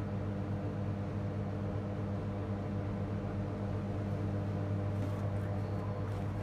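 A steady electrical hum with a low, even drone, like mains hum from workbench equipment.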